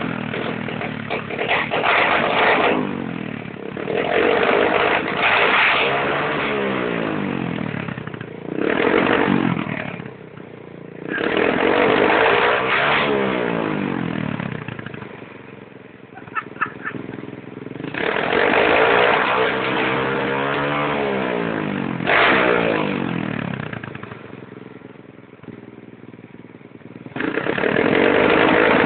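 Tuned pit bike engine revved hard again and again, its pitch climbing and falling back between blips, with a couple of sharp exhaust pops about halfway through: the bike backfires.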